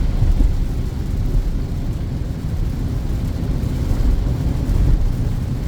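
Steady low rumble inside a Peugeot 2008's cabin while it climbs a steep wet highway: the engine under load and the tyres on the wet road.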